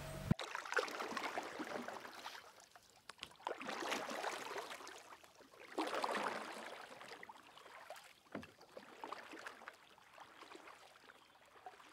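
Oars of a wooden rowboat dipping and splashing in lake water as it is rowed, in swells about every two seconds, with a few sharp knocks.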